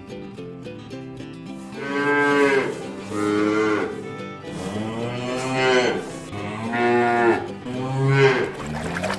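Cattle mooing, five long lowing calls in a row, the third the longest, starting about two seconds in.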